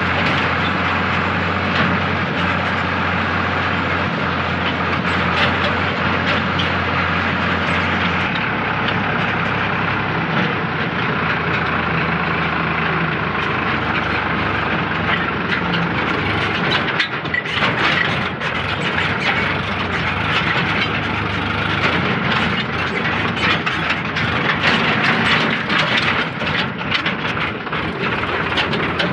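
Sonalika DI 740 III tractor's diesel engine running under load while pulling a fully loaded trolley. The engine note changes about eight seconds in.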